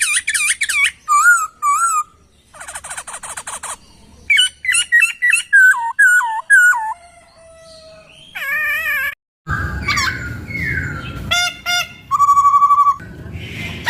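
Poksay (laughingthrush) song: a fast, varied run of repeated slurred whistles, rapid trills and buzzy chattering phrases. Just after halfway the recording drops out briefly, then resumes with a noisier background.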